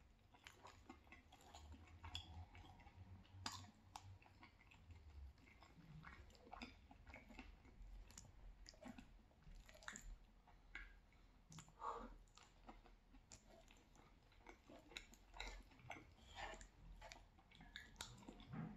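Quiet chewing and wet mouth sounds of a person eating cheesy penne pasta, with scattered light clicks of a fork against a frying pan.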